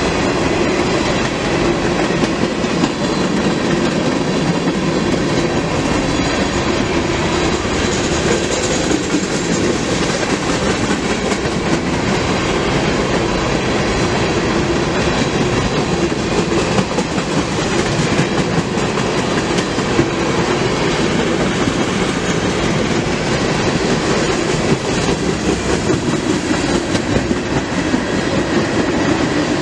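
Freight train's cars rolling past, a steady, loud noise of steel wheels running on the rails that holds without a break.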